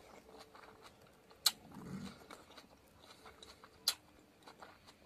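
Faint chewing and mouth sounds of a man eating with his hands, with two sharp smacks about a second and a half in and just before four seconds.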